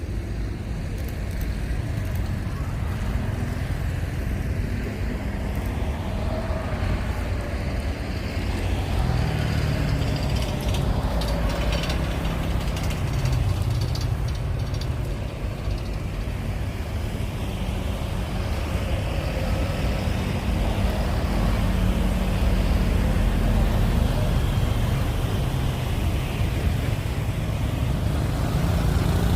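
A steady low engine rumble with a faint, slowly gliding tone in the middle.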